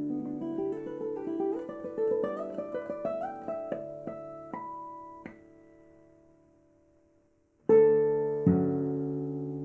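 Martinez MC-58 classical guitar played fingerstyle. A rising run of single plucked notes thins out and dies away into a brief pause. Then two strong chords come about a second apart and are left to ring.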